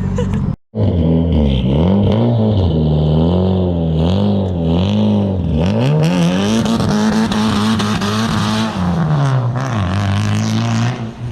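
Car engine revved hard again and again, its pitch swinging up and down, then held high for about two seconds with a rushing noise over it before dropping back.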